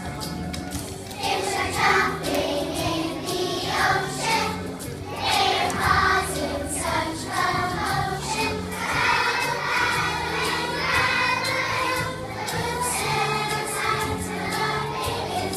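A group of young children singing together over instrumental music accompaniment.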